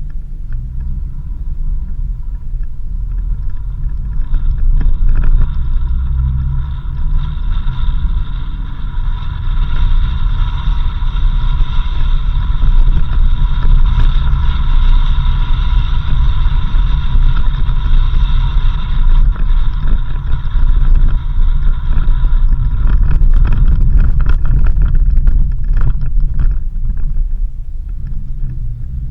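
Four-wheel-drive vehicle driving on a dirt road: a heavy, steady low rumble of engine and tyres, with a steady high whine over it for most of the middle and scattered knocks from bumps near the end.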